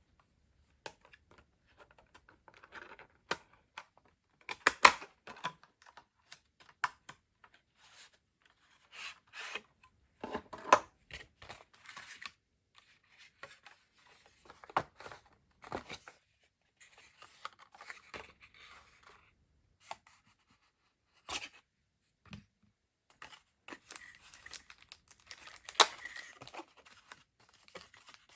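Stationery packaging being unwrapped by hand: bursts of tearing and crinkling with rustles and several sharp clicks and taps, broken by short quiet gaps.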